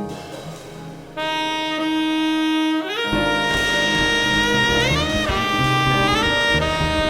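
Jazz saxophone holding one long, steady note over a fading drum swell, then moving on through the ballad melody with slurred, gliding changes of note. About three seconds in, the piano, double bass and drums come back in underneath.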